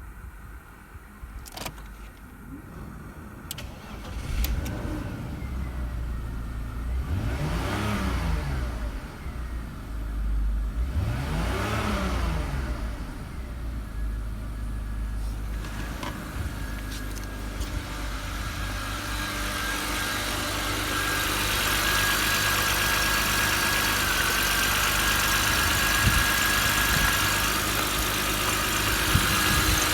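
BMW M52TUB20 2.0-litre straight-six engine starting about four seconds in, then idling, blipped up and back down twice, and idling steadily after that.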